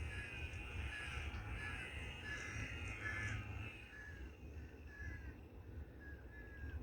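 Birds repeating a short "eh" call, about twice a second, over the low steady drone of a lawnmower.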